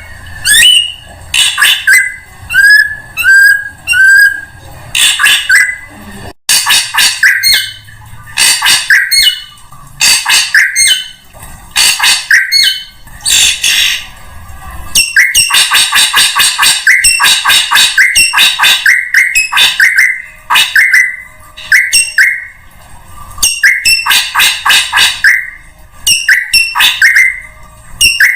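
Drongo calling loudly in short repeated phrases of ringing whistled notes and sharp chattering calls, with a fast run of rapid chatter about halfway through.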